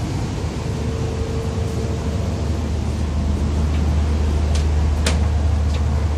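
Steady low drone of a passenger train carriage's onboard machinery, with a few sharp clicks and knocks in the second half, the loudest about five seconds in.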